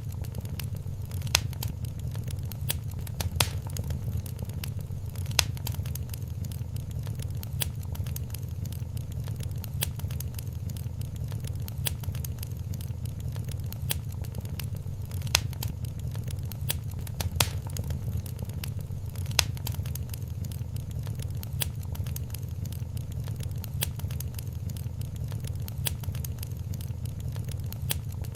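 Wood fire crackling in a fireplace: a steady low rumble of the flames under sharp pops and snaps every second or two.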